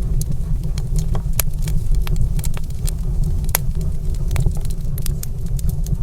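Fire burning in a stone fireplace, crackling with frequent sharp, irregular pops over a steady low rumble.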